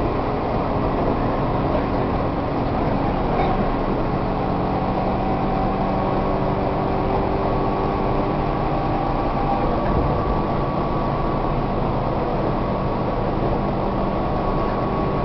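Tobu 1800 series electric train running at speed, heard from inside the passenger car: a steady roar of wheels on rail with a traction motor and gear whine that drifts slightly in pitch.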